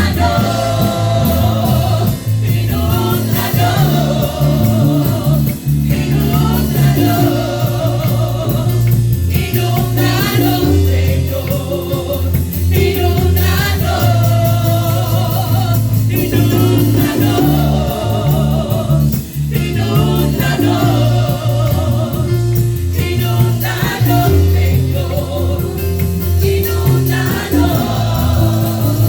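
Live gospel worship music: singers over a band with bass and drums, in a steady beat.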